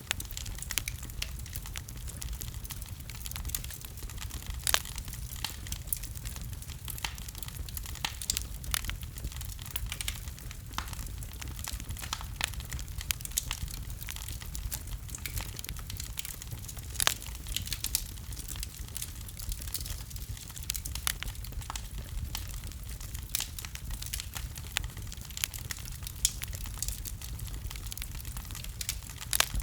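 Fire burning in a fireplace: a steady low rumble of flames under irregular crackles and sharp pops, with a few louder pops scattered through.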